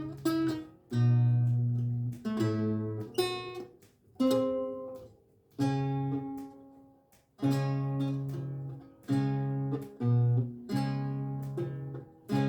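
Renaissance lute with gut strings, played slowly: plucked chords and single notes that ring out and fade. There are two short pauses near the middle.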